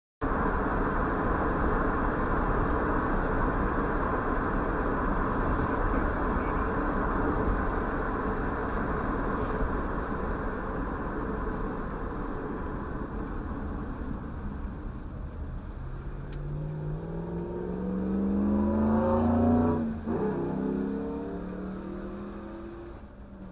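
Steady road and engine noise of a car in motion. About sixteen seconds in, another vehicle's engine grows louder with rising pitch, passes close at about twenty seconds with a sudden drop, then fades away.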